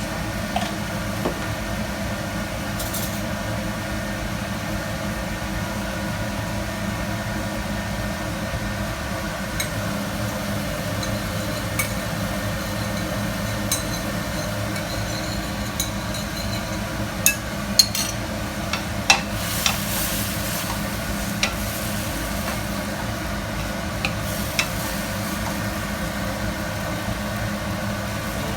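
Broccoli stir-fry sizzling in a pan over a steady hum, with a utensil clicking and tapping against the pan several times about two-thirds of the way through.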